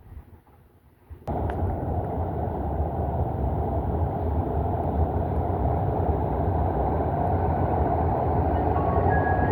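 MARTA rapid-transit train running along the rails: a loud, steady rumble that starts abruptly about a second in and grows slightly louder, with faint whining tones entering near the end.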